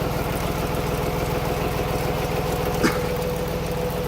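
Blue Bird school bus's diesel engine idling steadily, a low even pulsing with a steady whine over it. A single brief click comes about three seconds in.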